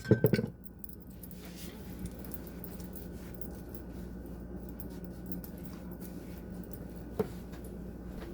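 Quiet kitchen background: a steady low hum with faint small handling noises, and one sharp click about seven seconds in. A louder sound cuts off about half a second in.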